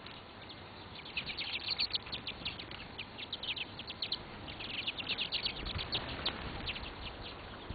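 Small birds chirping: quick runs of short, sharp chirps in busy clusters, several birds calling over one another.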